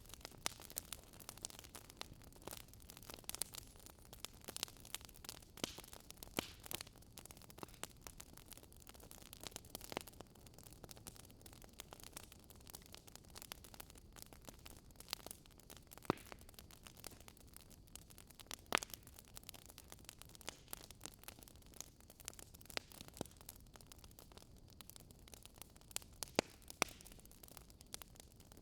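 Wood fire crackling: irregular pops and snaps over a low steady hiss.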